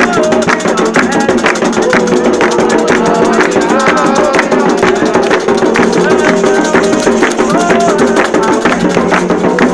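Candomblé ritual music: hand drums and rattling percussion keep a steady beat while a group of voices sings a chant.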